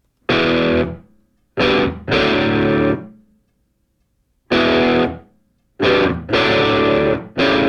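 Music: a distorted electric guitar playing loud chords in stop-start bursts, each cut off by a second or so of silence.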